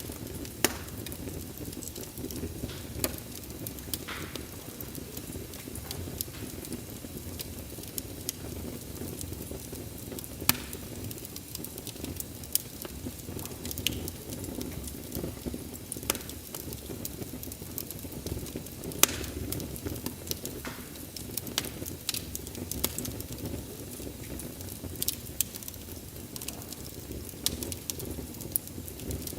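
Wood fire crackling: a steady low hiss of burning logs, broken by irregular sharp pops and snaps, a few of them much louder than the rest.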